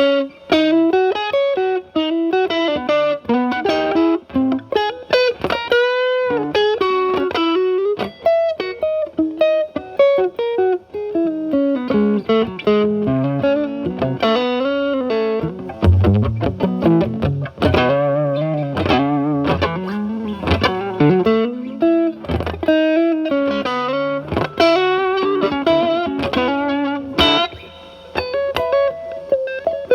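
Stratocaster with single-coil pickups played through a Timmy transparent overdrive pedal into a Marshall Valvestate amp's clean channel, the pedal at maximum gain and cleaned up with the guitar's volume knob, so it is only mildly driven. Improvised single-note lead lines with string bends and vibrato.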